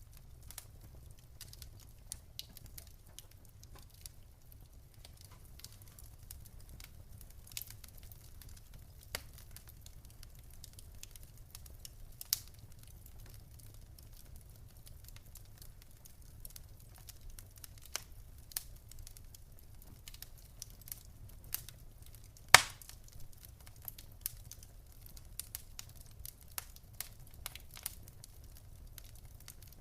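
Wood fire in a fireplace crackling, with irregular small snaps and pops over a low steady rumble; one loud pop about two-thirds of the way through.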